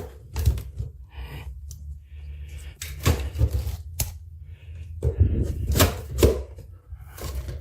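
Irregular clicks and knocks of hardware being handled and taken apart, a few sharp strokes spread over several seconds, with the loudest near the middle and toward the end.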